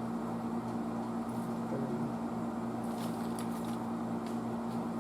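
Steady electrical mains hum, with a few faint light clicks and ticks from small parts and tools being handled.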